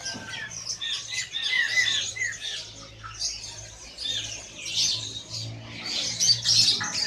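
A chorus of many caged songbirds chirping and calling at once, with quick overlapping high chirps and short arched whistled notes.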